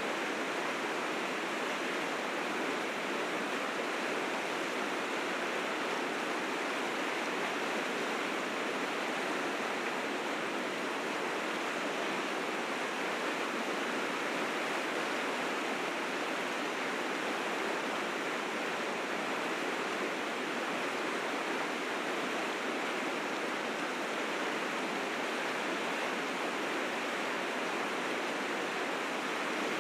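River rapids rushing, a steady full roar of fast spring meltwater over rocks.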